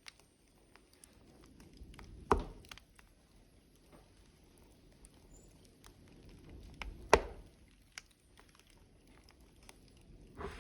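Burning logs in a wood fire, crackling: scattered small pops and ticks over a low hiss, with two sharp, loud cracks, about two seconds in and about seven seconds in.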